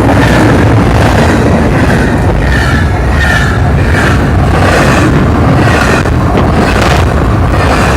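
Union Pacific double-stack container train rolling past: a loud, steady rumble of wheels on rail, with short high squeals from the wheels coming and going.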